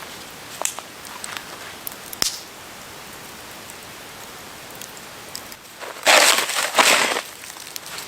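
Snow crunching: scattered small snaps and clicks over a faint steady hiss, then two loud crunches in the snow a little over half a second apart near the end.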